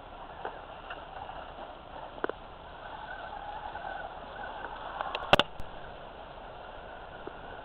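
Radio-controlled scale rock crawler trucks (Axial SCX10 and Wraith) driving: a faint whine from their electric motors and gearing, with a few knocks and one sharp clatter about five seconds in.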